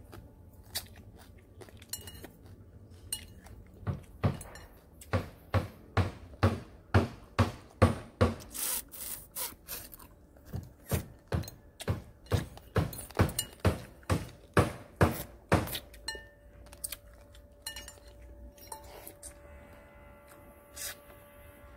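Close-up eating sounds: a person chewing crispy fried silver snapper and boiled food, a quick steady chewing rhythm of about three bites a second through the middle that stops after about fifteen seconds.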